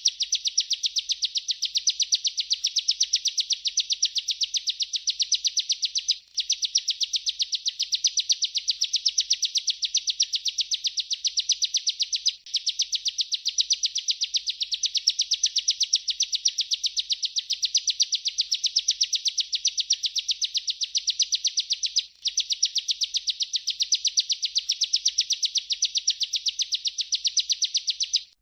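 Bar-winged prinia (ciblek) singing a rolling song: a very fast, continuous trill of high repeated chirps. It breaks off for a moment three times before going straight on.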